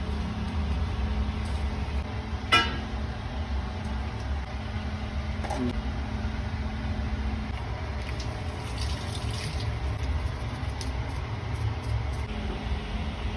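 Steady low rumble of cooking on a kitchen stove, with a sharp ringing metal clink about two and a half seconds in and a softer clink about three seconds later.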